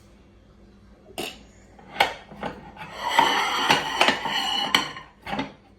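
Household handling sounds, plausibly kitchenware: a few sharp knocks, then about two seconds of dense clattering with knocks in it, and one more knock near the end.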